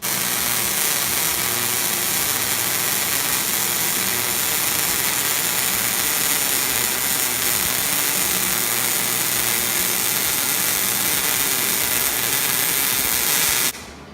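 Hobart 300-amp MIG welder's arc laying a continuous weld bead: a loud, steady hiss that starts abruptly and cuts off suddenly about 13½ seconds in.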